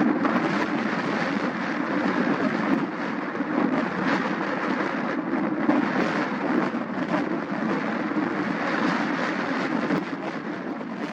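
Steady jet rumble of an Airbus A320neo's Pratt & Whitney PW1100G geared turbofans as the airliner climbs away after takeoff.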